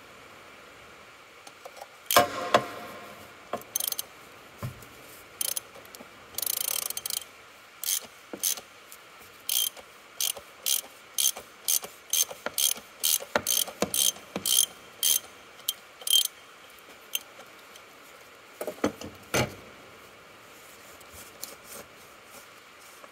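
Ratchet wrench with a 36 mm socket clicking in a steady run of about two clicks a second while unscrewing the oil filter housing cap on a Volvo D5 diesel. There is a loud clack about two seconds in and a few knocks near the end.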